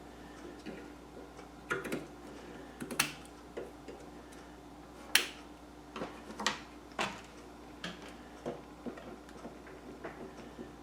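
Scissors snipping and trimming lace: a dozen or so light, sharp clicks at uneven intervals, the loudest about five seconds in.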